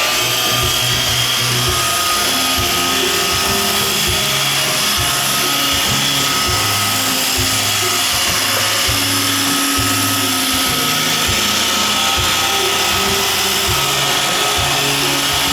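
iRobot Roomba 530 robot vacuum running, its vacuum and brush motors giving a steady high whine over an even rushing hiss.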